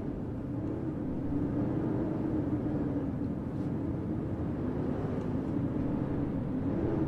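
Blizzard wind blowing steadily, a low howl wavering gently in pitch over a deep rumble.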